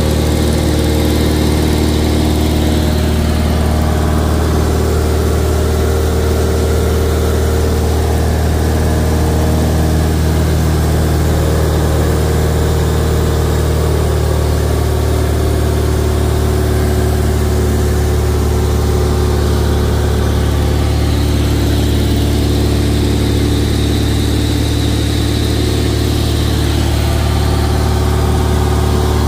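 Cessna 172's piston engine and propeller running steadily, heard from inside the cabin as a constant low drone.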